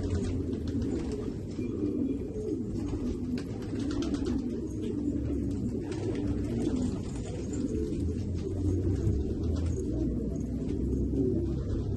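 Several domestic fancy pigeons cooing, their low calls overlapping without a break, with a few faint clicks among them.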